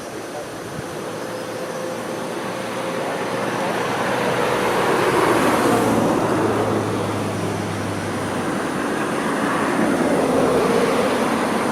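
Road noise of vehicles passing close by: a broad rushing sound that swells twice as they go past.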